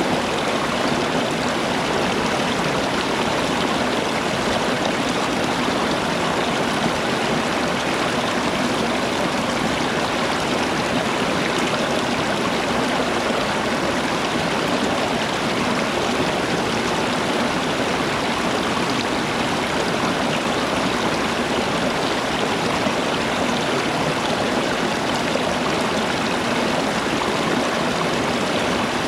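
A stream of water running steadily, an even rushing sound with no breaks or changes.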